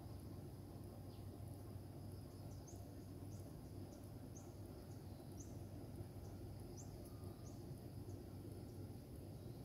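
Quiet outdoor ambience: a steady low rumble underneath, with faint, short, high chirps of a small bird repeating every half second to a second.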